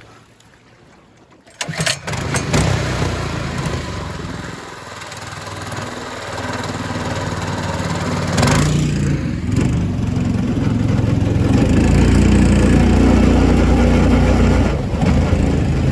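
Small gas engine on a boat's mud motor starting up about a second and a half in with a few sharp clicks, then running and being throttled up, louder around the middle and again near the end.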